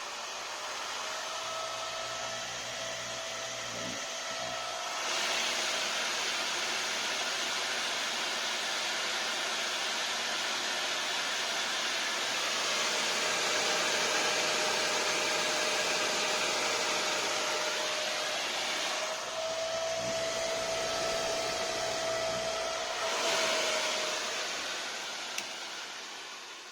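Delta FFB1212EH 120 mm high-speed (4000 rpm) fan running: a loud rush of air with a steady whine. The whine rises in pitch in the first second and falls away at the very end. The rush grows louder and brighter about five seconds in, eases back a little after about nineteen seconds, and swells again briefly near the end.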